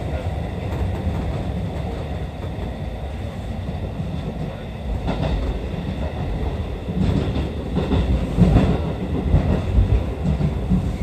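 Seibu 101-series electric train running, heard inside the driver's cab: a steady rumble of wheels and running gear. From about seven seconds in there are louder knocks and clatter as the wheels run over the points where the track divides on the station approach.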